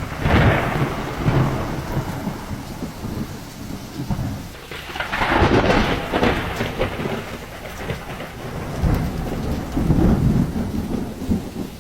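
Storm noise: heavy rain and wind with three loud rumbling surges about five seconds apart, easing off near the end.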